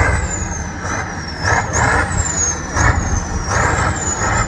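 Competition trial truck's engine throttled in about four bursts over a steady low rumble, with a high whine that climbs with each burst and drifts down between them.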